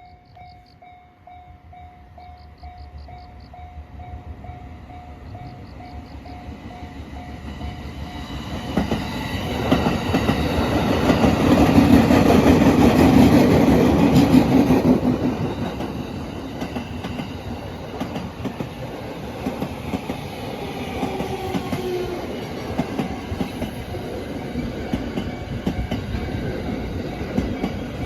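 Japanese level-crossing bell ringing in repeated dings. Then an E231 series 1000 electric multiple-unit train approaches and passes, its wheels clattering over the rail joints; it is loudest about 10 to 15 seconds in, and the train keeps rolling by at a lower level to the end.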